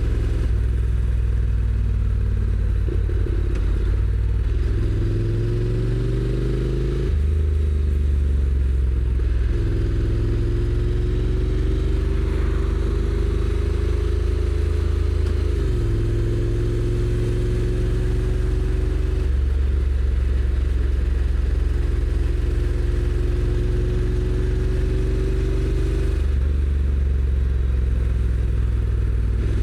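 Honda NC750X's parallel-twin engine on its stock exhaust pulling under way. Its pitch rises as the bike accelerates and steps down at dual-clutch gear changes about 7 and 16 seconds in, then holds fairly steady at cruise.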